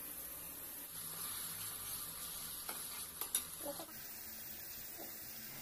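Masala paste of mustard seeds, cumin, ginger and garlic sizzling in hot oil in a metal kadai while a metal spatula stirs it, frying until the raw smell is gone. A few sharp scrapes and clicks of the spatula against the pan come about three seconds in.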